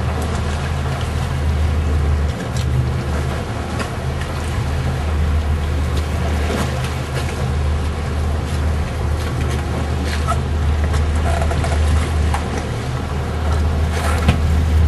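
Boat under way: a steady low engine rumble with wind and water noise over it.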